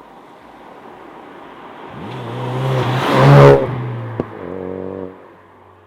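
Mk3 Ford Focus RS's 2.3-litre turbocharged four-cylinder engine, breathing through a non-resonated valved Cobra Sport cat-back exhaust, driving past: the note builds to a loud peak about three and a half seconds in, then falls away. A single sharp click comes just after the peak, and the note fades near the end.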